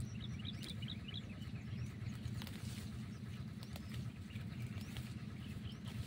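A bird chirping a quick run of short high notes in the first second, with scattered crackles and rustles of dry banana leaves being handled, over a steady low hum.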